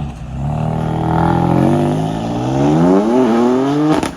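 Car engine under hard acceleration, its pitch climbing steadily with a brief dip about three seconds in, then cutting off suddenly near the end.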